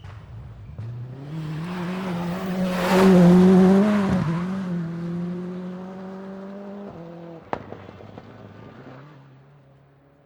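Racing car engine passing close by at speed: it builds to a peak about three seconds in, then carries on with brief breaks in the note and fades away. A single sharp crack sounds about seven and a half seconds in.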